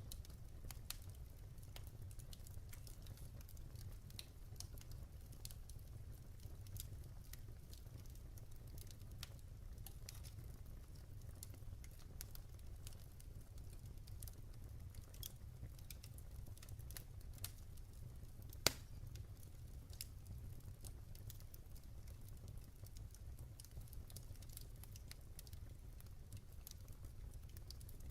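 Wood fire crackling in a fireplace: scattered small pops and snaps over a low steady rumble, with one sharp, louder pop about two-thirds of the way through.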